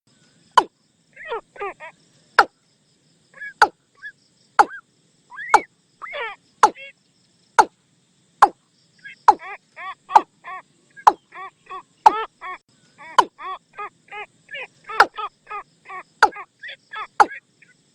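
Watercock calls played as a decoy: sharp, dry knocking notes about once a second, with runs of short, hollow, pitched notes between them that come thicker and faster in the second half.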